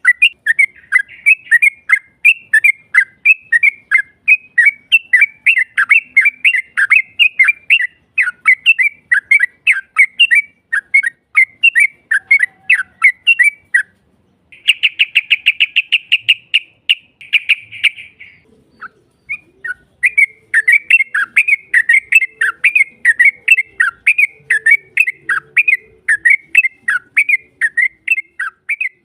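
Yellow-vented bulbul (trucukan) singing a long, rapid run of chirping notes, broken about halfway by a dense, fast trill lasting a few seconds, then chirping again after a short pause.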